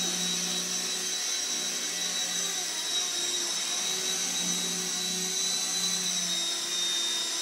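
Walkera CB180Q micro RC helicopter hovering: a steady high whine from its electric motor and gearing, over a low rotor hum that dips and returns with small changes in pitch as the throttle is worked.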